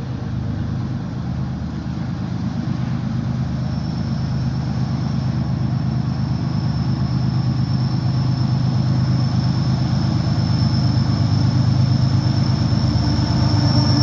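Diesel locomotive engine running as a CSX train approaches, growing steadily louder, with a thin high squeal coming in about four seconds in.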